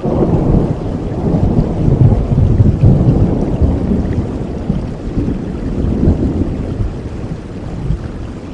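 Thunder rolling over steady rain: a low rumble that swells over the first few seconds, then slowly dies away under the hiss of the rain.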